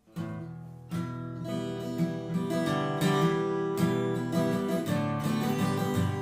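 Acoustic guitar playing the instrumental intro of a song, starting suddenly from silence just after the start.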